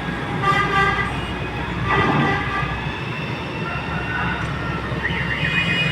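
A heavy excavator's diesel engine runs steadily at the dig. Short horn toots cut in twice, about half a second and two seconds in.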